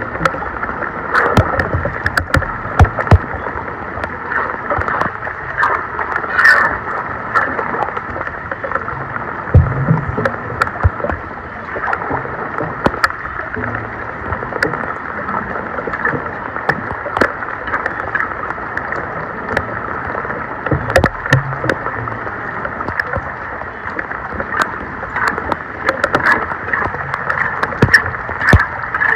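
Floodwater running and sloshing at a clogged street storm drain, with frequent sharp clicks and knocks.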